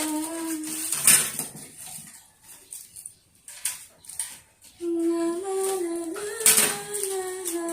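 A woman humming a wordless tune in held notes, breaking off for a few seconds in the middle. During the break there are a few sharp clicks and knocks of the fan's plastic parts being handled during assembly.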